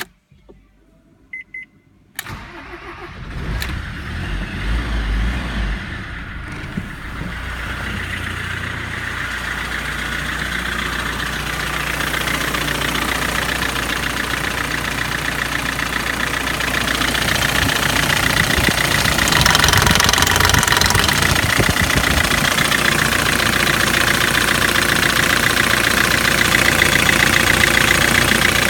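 BMW E36 1.8 TD four-cylinder turbodiesel engine (M41) cranking and starting about two seconds in, with a heavy rumble as it catches, then running steadily at idle.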